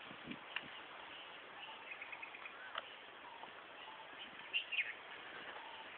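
Faint chirping and twittering of small birds over a soft outdoor hiss. There is a quick run of short notes about two seconds in, and the clearest pair of calls comes a little after four seconds.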